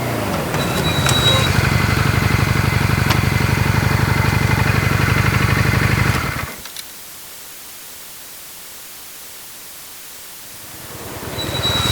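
Motorcycle engine running steadily under load, cut off abruptly about six seconds in. A few seconds of quieter hiss follow, then another motorcycle engine rises near the end.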